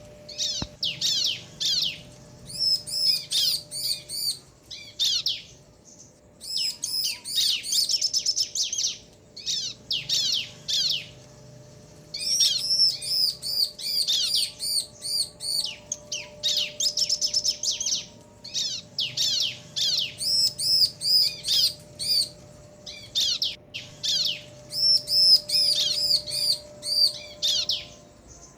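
Bar-winged prinias (ciblek), a male and a female, calling back and forth. Their call is bouts of rapid, high, chattering notes broken by short pauses.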